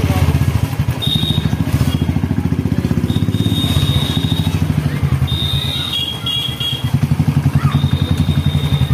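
Royal Enfield Bullet's single-cylinder four-stroke engine running, with an even, rapid low beat. A thin high whistling tone comes and goes several times over it.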